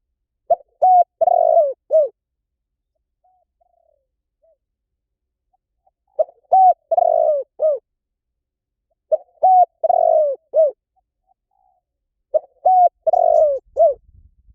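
Spotted dove cooing: four phrases about three seconds apart, each a short run of coos with one longer note near the middle.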